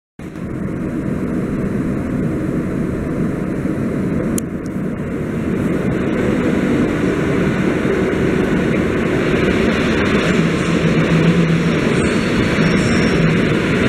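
Two coupled electric multiple units running into a station platform, a steady rumble that grows slowly louder as they draw in and pass.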